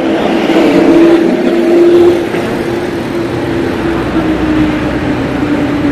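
A motor vehicle's engine passing close by, loudest in the first two seconds and then settling into a steadier hum.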